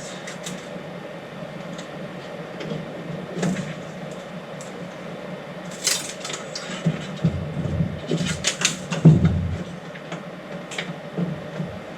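Plastic 3D-printer parts being handled and fitted by hand: irregular clicks, taps and knocks, busiest in the second half, over a steady low hum.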